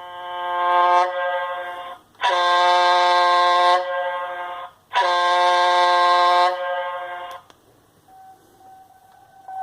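Sagem myX5-2 mobile phone ringtone: a buzzy, steady-pitched electronic tone sounding three times, each about two seconds long and tailing off, the first swelling up in volume. Near the end a softer, plainer tone starts.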